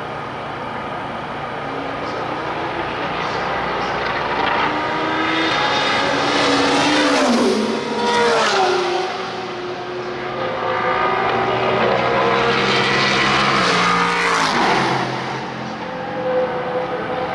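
IMSA sports racing cars passing one after another at speed, each engine's pitch falling as it goes by. The two loudest passes come about seven and fourteen seconds in.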